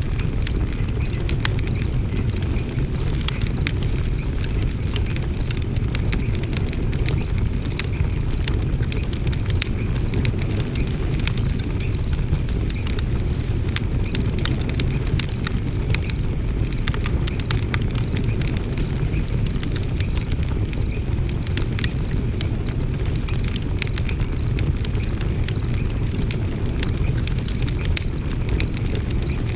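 Wood fire burning in a fire pit: steady crackling with frequent small sharp pops over a low rumble, and a faint regular high-pitched pulsing behind it.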